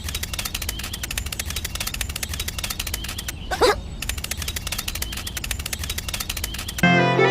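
A small tractor engine running with a rapid, even chug. A dog barks once about halfway through, and music with strings comes in near the end.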